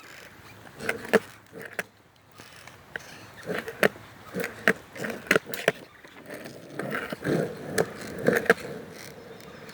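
Footsteps crunching and scuffing over rough, stony ground, an irregular run of sharp steps and knocks about one or two a second.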